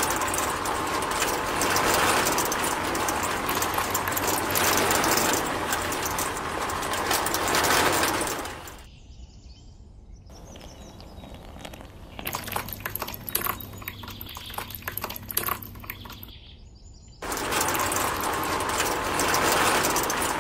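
Small electric motor and gear drive of a miniature concrete mixer running with a rough, noisy whir for about eight seconds, stopping, then starting again near the end. In the quieter stretch between, a few light clicks and taps.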